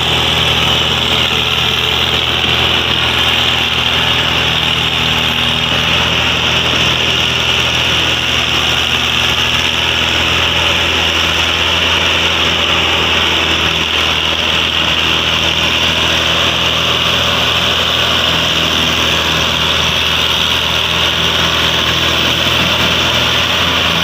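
Mahindra Arjun 605 DI tractor's diesel engine running steadily, with a steady high hiss over the engine note.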